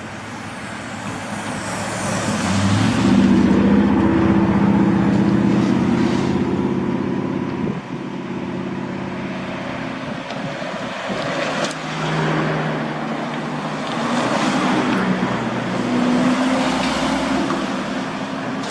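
Large trucks' diesel engines running as they drive past, one after another. The nearest truck comes up loudest a few seconds in, with its engine note stepping up, and quieter engines follow later.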